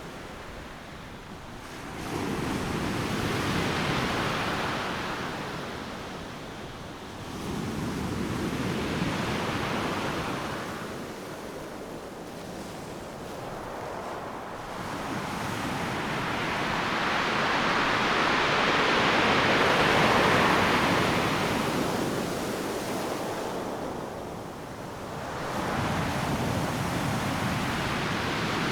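Ocean surf breaking on a sandy beach: waves crash and wash in repeated swells every several seconds, each rising to a loud rush of white water and then subsiding, with the biggest swell peaking past the middle.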